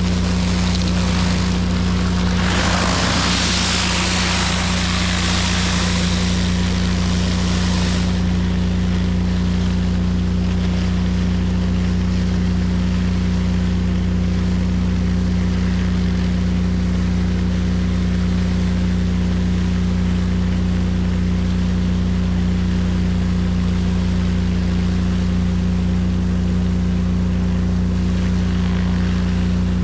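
Pressure washer running steadily at about 10.6 gallons a minute: a constant motor and pump hum under the hiss of high-pressure water spraying onto a concrete driveway. The hiss is loudest from a couple of seconds in until about eight seconds in, then settles to a steadier, duller spray.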